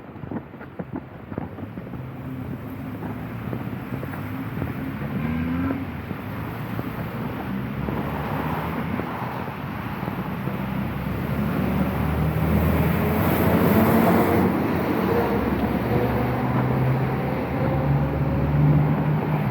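A motor vehicle's engine running close by and growing steadily louder, its hum changing pitch and loudest in the second half, over a constant hiss. Light tapping is heard in the first couple of seconds.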